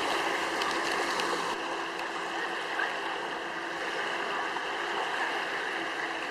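Steady rushing noise of water, even throughout, with a faint steady hum beneath it.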